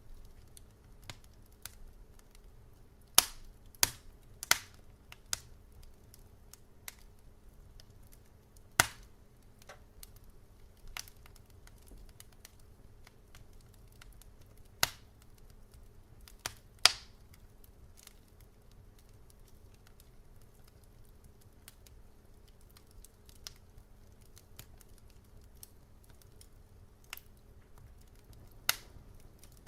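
Wood fire crackling: irregular sharp pops and snaps at no set rhythm, a few much louder than the rest, over a faint steady low hum.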